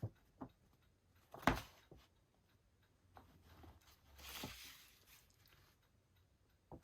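Faint handling of a folded paper poster: a sharp tap about a second and a half in and a soft rustle a little past the middle, with a few light ticks between.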